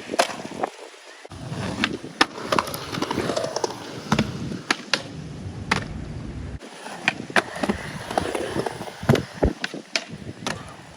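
Skateboard on Powell Peralta Dragon Formula wheels rolling over wet concrete, with frequent sharp clacks of the board and trucks striking the ground.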